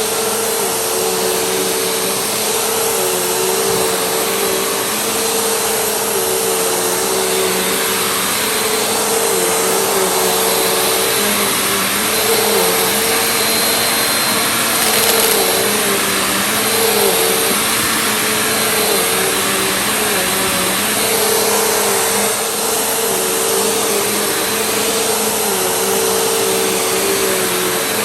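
Vacuum cleaner running steadily, a motor hum over a rushing hiss, its pitch dipping briefly now and then.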